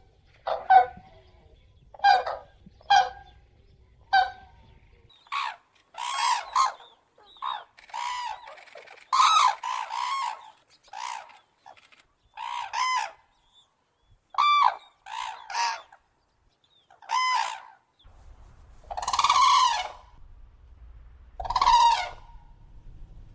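Common cranes calling: a loud series of about a dozen separate calls, each under a second or so, some coming in quick pairs.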